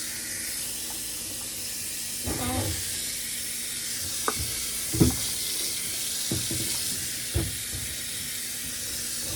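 Kitchen faucet running steadily while a refrigerator part is rinsed in the sink, with about five knocks and clunks as the part bumps against the sink.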